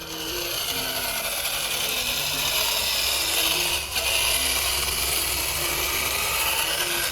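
A power tool working on material, a steady rasping noise that breaks briefly about four seconds in.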